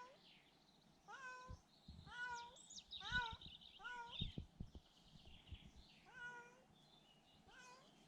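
Domestic cat meowing repeatedly: about eight short, rising-then-falling meows. Between them, in the middle, come a few soft low thumps.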